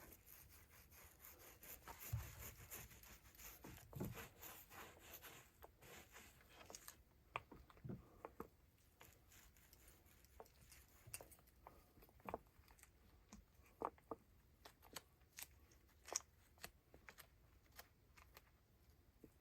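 Faint handling noise: soft rustling for the first several seconds, then scattered light clicks and taps, as of containers and tools being handled while resin is prepared.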